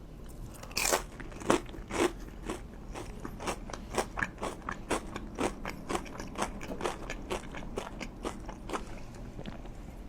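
Close-miked crunching as a person bites into crunchy food about a second in, then chews steadily with about three crackly crunches a second, fading near the end.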